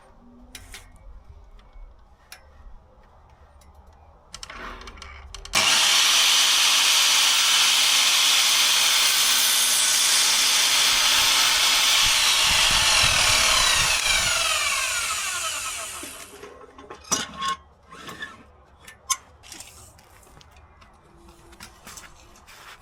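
An electric power saw starts abruptly a few seconds in and runs loud and steady for about eight seconds, cutting a wooden panel, then winds down with a falling whine. Light knocks and taps of wood being handled come before and after it.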